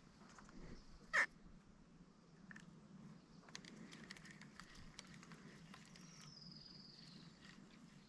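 Quiet lakeside ambience: a single short, sharp rising squeak about a second in, scattered faint clicks, and a bird's thin high whistle, falling slightly in pitch, near the end.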